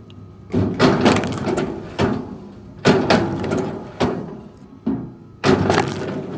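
Wood cracking and crunching under force: a sharp crack about once a second, each one trailing off over a second or so.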